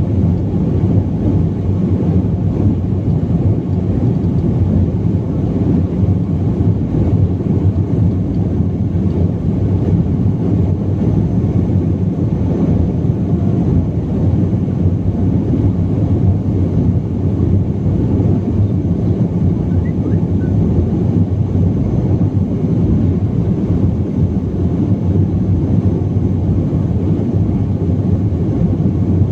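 Steady low rumble inside the cabin of a BAe 146 jet airliner: its four turbofan engines and the rushing air, even and unbroken.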